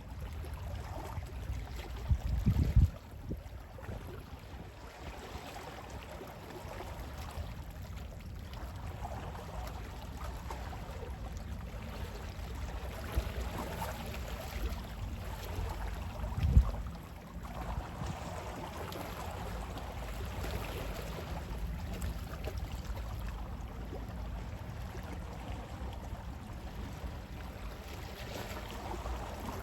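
Gentle sea waves washing in and drawing back in slow swells, over a steady low rumble of wind. Two brief louder low thumps come about two and a half seconds in and again near the middle.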